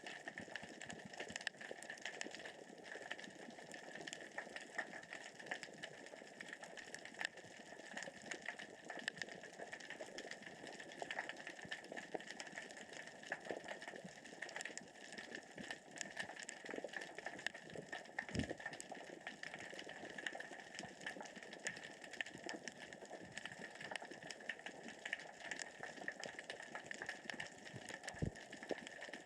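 Underwater ambience: a steady, dense crackle of small clicks from pebbles rolling across the sea floor as the current and tide move them. Two short low thumps sound, one about two-thirds of the way in and one near the end.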